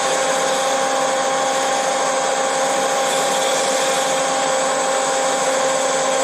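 Power drill running at a steady speed, spinning an engine valve while its face is polished with wet fine-grit sandpaper: an even motor whine over a hiss.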